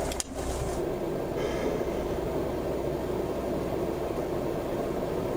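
Steady, even rumbling noise with no clear tone or rhythm.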